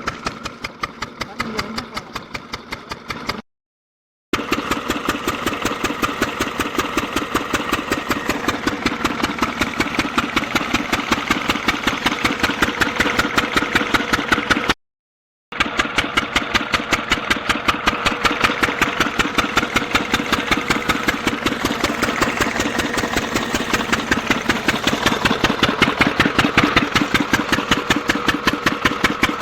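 Stationary diesel oil engine driving a bore-well air compressor pump, running at a steady speed with an even beat of about four pulses a second. The sound cuts out completely twice, each time for under a second.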